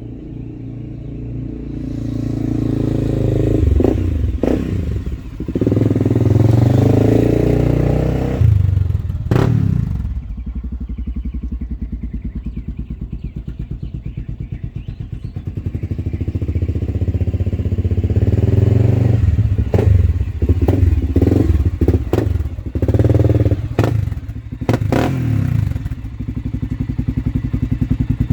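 Honda TRX400EX's single-cylinder four-stroke engine through a Motoworks aftermarket exhaust, idling with an even thump and then revved up and down in two spells of throttle blips, with several sharp cracks during the revving. The engine is still warming up after a cold start.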